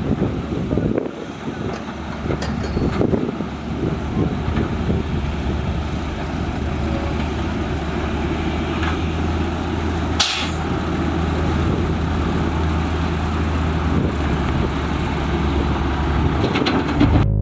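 Heavy diesel engine of construction machinery running steadily, with a short sharp hiss about ten seconds in.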